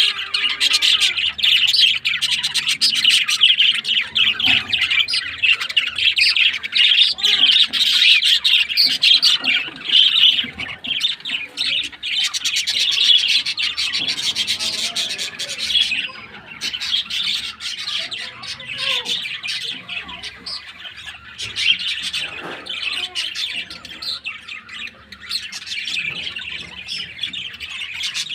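A crowd of small birds chirping and chattering together, many calls overlapping without a break; the chorus thins a little about halfway through.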